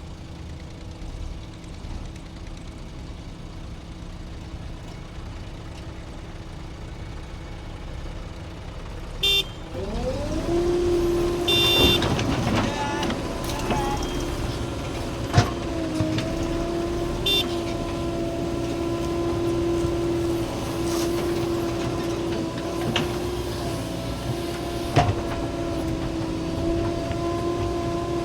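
Diesel engine of a JCB 3DX backhoe loader running low, then about ten seconds in revving up and holding high and steady under load while it loads mud. A few short, sharp metallic clanks sound over it.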